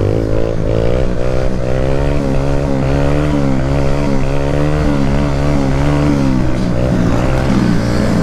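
Motorcycle engine held at high revs, its pitch wavering up and down about twice a second as the throttle is worked, then dropping and changing about six and a half seconds in.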